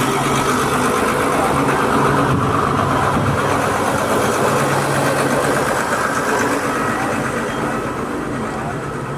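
A truck's engine running steadily, easing off slightly in the last few seconds.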